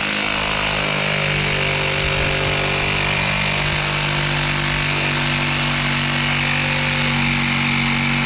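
A motor running steadily at a constant pitch, with a broad hiss over it.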